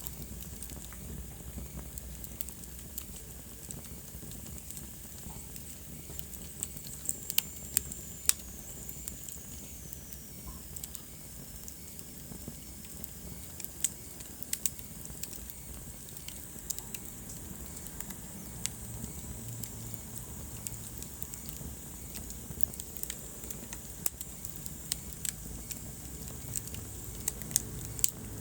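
Wood fire burning in a fireplace: a steady low rumble and hiss of the flames with irregular sharp crackles and pops from the burning logs, and a faint high whistle that drops in pitch about eight seconds in.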